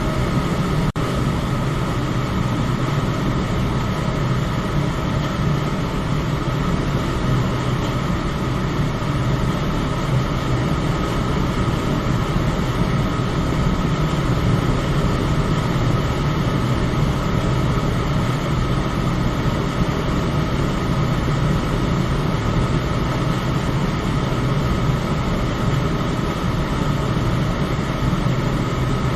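Electric fan running steadily: an even whir of rushing air over a low motor hum, with a brief dropout about a second in.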